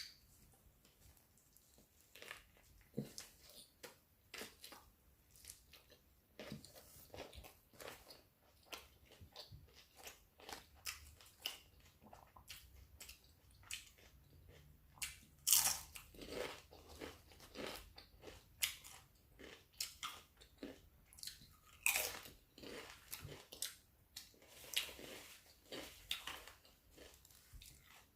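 A person eating a Subway steak and cheese sub: bites and chewing, a string of irregular short mouth clicks, a few louder bites about halfway through and again a little later.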